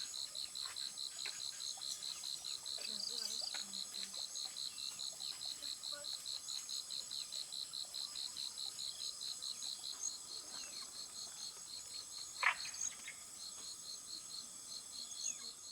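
Insects chirping in a steady pulsing rhythm, about four or five chirps a second, over a higher steady buzz of more insects. One brief sharp sound cuts in about twelve seconds in.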